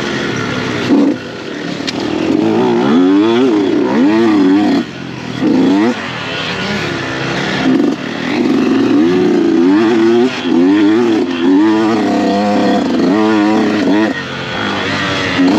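Dirt bike engine revving up and down over and over, its pitch climbing and dropping every second or so, with short dips as the throttle is rolled off.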